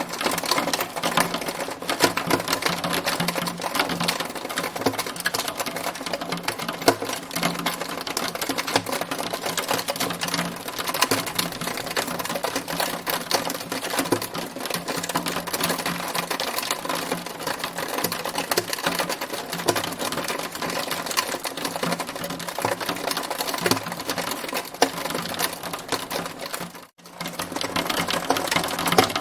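Hailstones pelting a hard surface in a dense, steady rattle of rapid clicks, with a brief break near the end.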